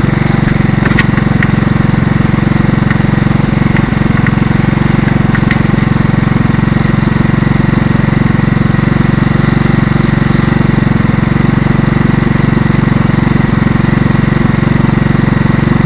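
Small 150cc motorcycle engine running steadily at an even speed, with a few faint clicks in the first several seconds.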